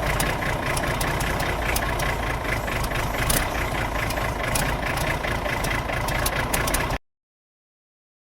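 Antique tractor engine running steadily at idle with an even, regular beat. About seven seconds in, it cuts off abruptly into complete silence.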